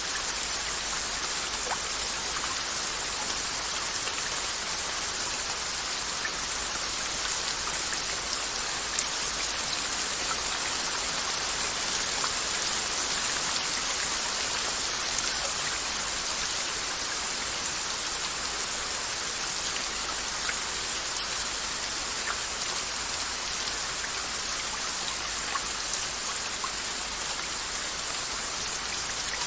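Steady rain falling, a continuous hiss with many small drop patters on a surface.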